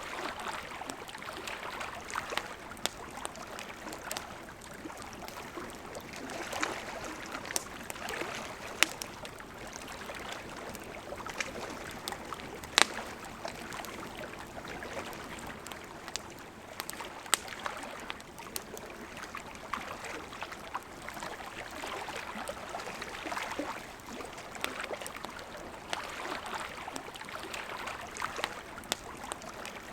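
A river flowing steadily under a crackling campfire, with sharp pops and snaps scattered through, the loudest about thirteen seconds in.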